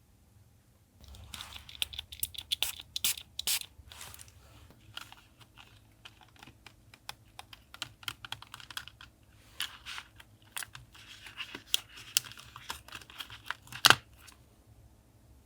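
Close-up crafting handling sounds: quick ticks and rustles of paper and small objects being handled, with one sharp click near the end.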